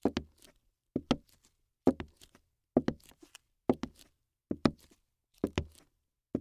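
A regular series of short double thuds, about one pair every 0.9 seconds, with silence in between.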